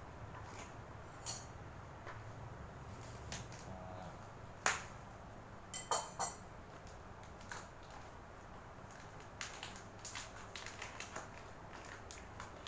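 Scattered clicks and light knocks of hands handling food packaging and the plastic hotpot bowl while hot dogs are added, the sharpest click about a third of the way in and a quick cluster just after.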